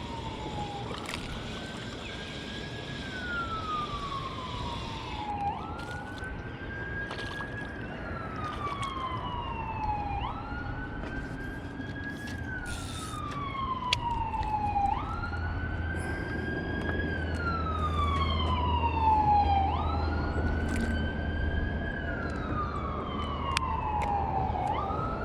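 A siren wailing over and over: each cycle rises quickly, holds briefly, then falls slowly, repeating about every five seconds. A low steady hum joins about two-thirds of the way through.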